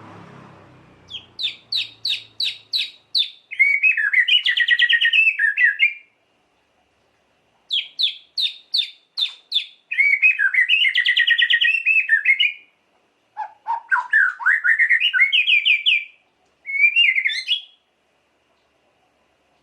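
White-rumped shama (murai batu) singing. Twice it gives a run of about six sharp, clipped notes at roughly four a second, each run followed by a fast chattering trill. A rising trill comes after the second trill, and a short phrase follows near the end.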